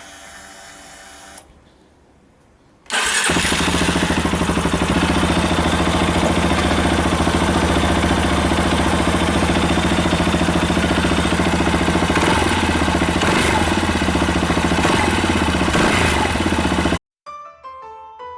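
Yamaha Tricker XG250's air-cooled single-cylinder engine catching about three seconds in and then idling steadily. It cuts off suddenly near the end and keyboard music starts.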